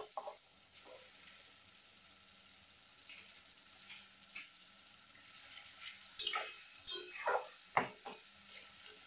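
Onions with ginger and garlic paste sizzling softly in oil in a steel kadai on low to medium heat, while a metal spatula stirs and scrapes against the pan, with a few sharper scrapes about six to eight seconds in.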